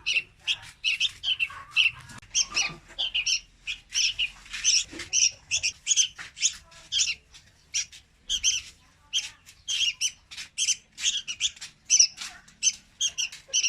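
Young red-whiskered bulbul calling: a rapid, continuous run of short, sharp chirps, about three a second.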